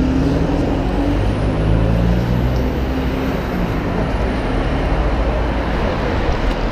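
Road vehicle noise: a loud, steady rush of engine and road noise, with a low engine tone that fades out about a second in and a faint high whine that rises and then falls.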